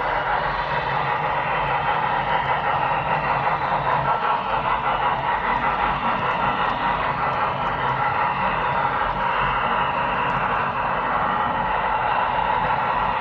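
Model train running on its track, heard from on board: a steady whir of the small electric motor and gears with a fast, uneven clatter of the wheels over the rails.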